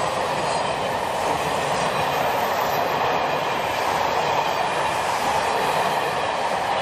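ONCF passenger train coaches passing close by on the track: a steady, loud noise of wheels running on the rails.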